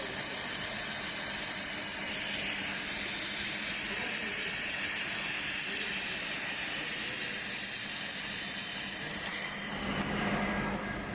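Fiber laser welding on steel pipe: a steady, high hiss and sizzle that cuts off suddenly about ten seconds in, leaving a lower hum of the machine running.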